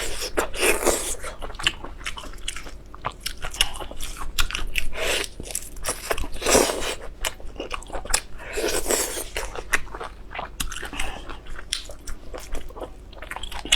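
A person eating close to the microphone: chewing and biting with wet crackles and crunches, broken by a few longer noisy gulps or slurps.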